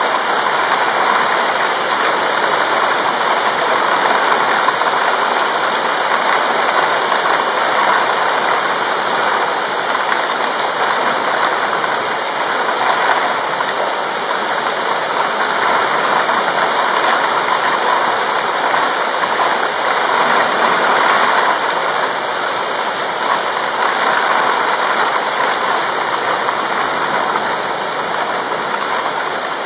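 Heavy thunderstorm rain pouring steadily, a dense, even hiss that swells slightly now and then.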